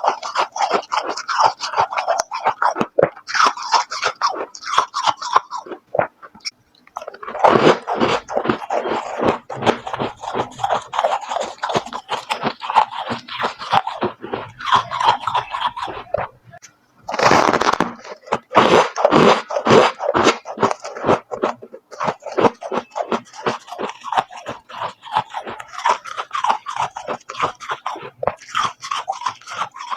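Close-up crunching and chewing of crunchy freezer frost: a fast, dense run of crisp crunches, with two short breaks about six and seventeen seconds in.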